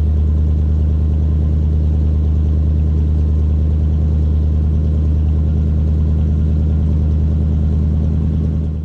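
1951 Lincoln Cosmopolitan's flathead V8 idling steadily after a cold start, a deep, even rumble. It fades out just before the end.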